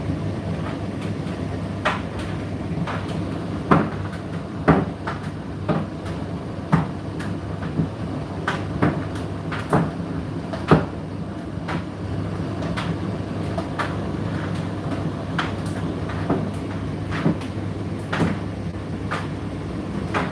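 Indesit IDC8T3 condenser tumble dryer running: a steady motor hum with the drum turning, and a short knock about once a second as it rotates.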